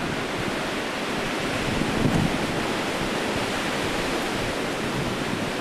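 Strong gusting wind blowing, a loud steady rush with a stronger gust about two seconds in, and wind buffeting the microphone with a low rumble.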